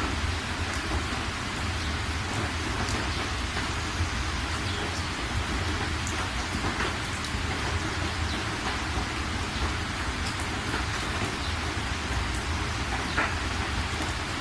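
Steady rain, an even hiss with scattered single drops ticking against a surface, over a continuous low rumble.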